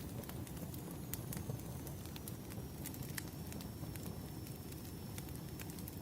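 Wood fire burning: irregular sharp crackles and pops over a steady low rumble of flames.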